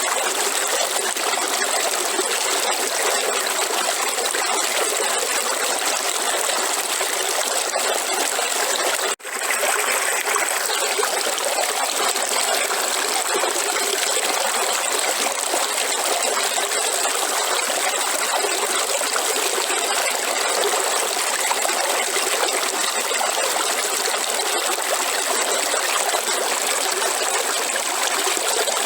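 River water running in a steady, unbroken flow, which cuts out for an instant about nine seconds in.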